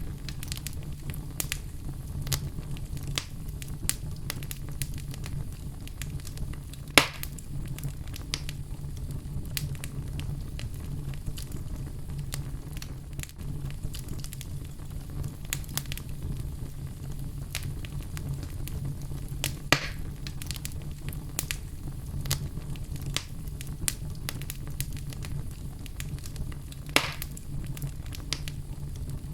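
Fire crackling steadily over a low rumble, with many small snaps and three louder pops spread through.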